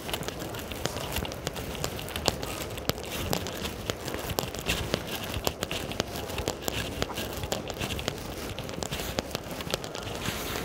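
Rain falling, with many irregular sharp ticks of drops striking close by over a steady hiss.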